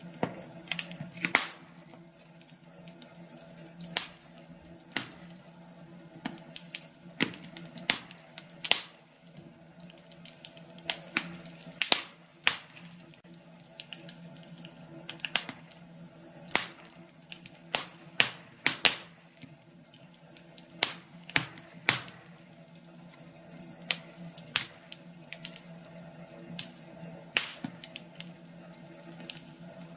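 Wood fire crackling, with many sharp, irregularly spaced pops and snaps from the burning logs over a steady low background.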